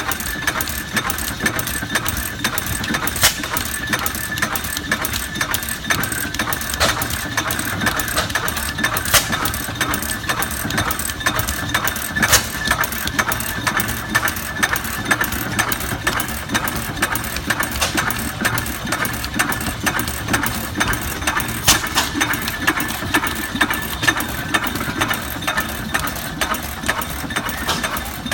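Samson hit-and-miss gas hoist engine running steadily with a rapid, even mechanical clatter. Louder sharp cracks come every few seconds at uneven intervals.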